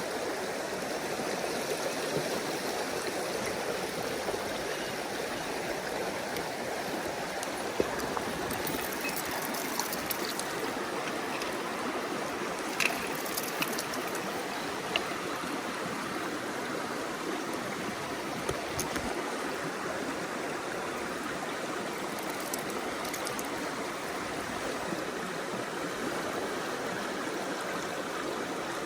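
Mountain stream rushing steadily over rocks, with a few short clicks around the middle.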